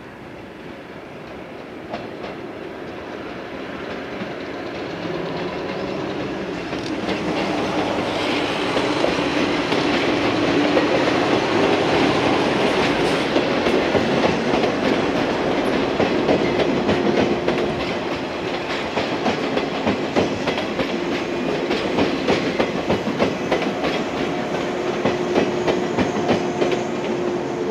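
Yellow JR West 115-series electric train of two coupled three-car sets approaching and running past, growing steadily louder over about ten seconds. Its wheels then clatter over the rail joints in a quick, even rhythm, with a steady hum under it.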